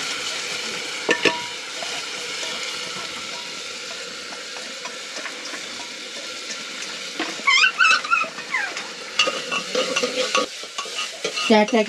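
Lentils frying in oil in an aluminium pressure cooker, a steady sizzle. A brass ladle stirs and clinks against the pot, most often near the end.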